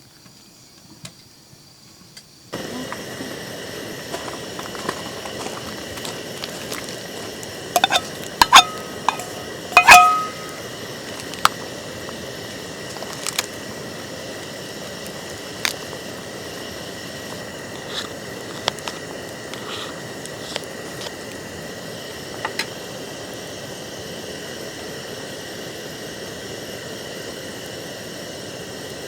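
Glass or metal dishes clinking several times with a short ring, over a steady hiss that starts suddenly a couple of seconds in; scattered light taps and clicks follow.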